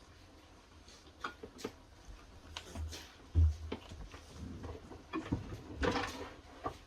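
Scattered clicks and knocks of refrigerator parts being handled and fitted during reassembly, with one louder dull thump about three and a half seconds in.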